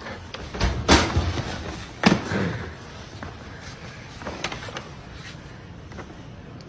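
Two sharp knocks or thuds about a second apart, over a steady low background noise.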